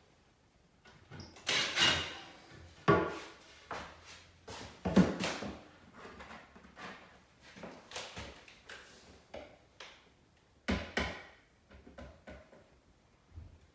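Wooden window trim being handled and fitted: irregular knocks and scrapes of wood against wood, with the loudest knocks about 1.5, 3, 5 and 11 seconds in.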